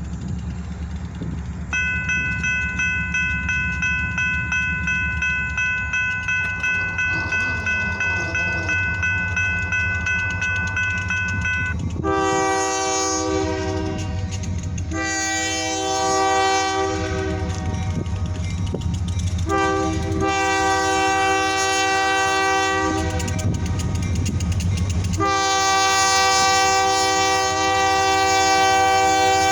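EMD SD40-2 diesel locomotives rumbling past while a bell rings steadily with a quick even pulse for about ten seconds. Then the locomotive's air horn sounds four long blasts, each a few seconds long.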